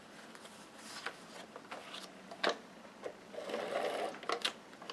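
Cardstock being handled and pressed into place on a scrapbook layout: a few light clicks and taps, with a short rasping rub about three and a half seconds in.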